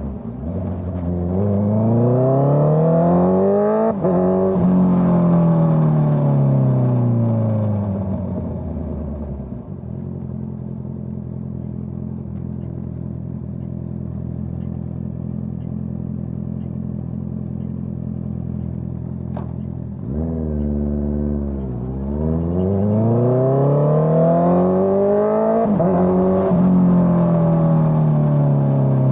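Honda CBR650R inline-four engine through a Dominator GP full-system exhaust, accelerating hard through the gears with brief dips at each shift, then slowing with the engine note falling. It idles steadily for about ten seconds, then revs and pulls away again, climbing through the gears.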